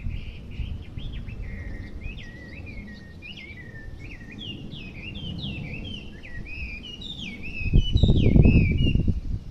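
A songbird singing a long, varied run of clear whistled phrases, many notes slurring downward and repeated in quick series; the uploader takes it for a Chinese hwamei. A loud low rumble swells under the song about eight seconds in.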